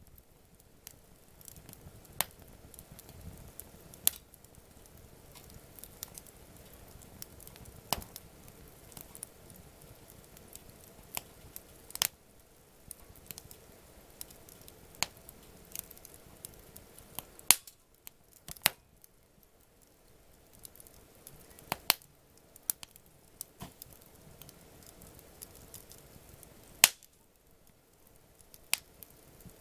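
Wood campfire crackling: sharp, irregular pops and snaps over a faint hiss, a few of them louder, the loudest a few seconds before the end.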